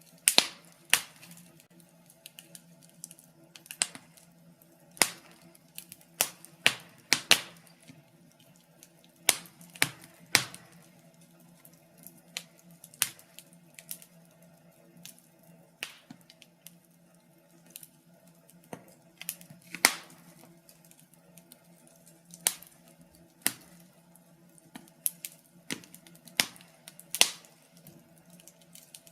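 Wood fire in a fireplace crackling, with sharp irregular pops and snaps at uneven intervals, some bunched close together, over a faint low hum.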